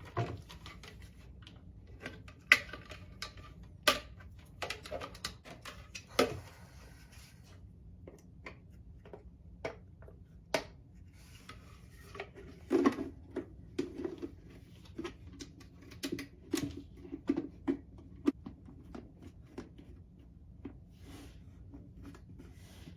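Hard plastic parts of a pet water fountain clicking and knocking as they are handled and fitted together: scattered sharp clicks, with a run of quicker knocks in the middle.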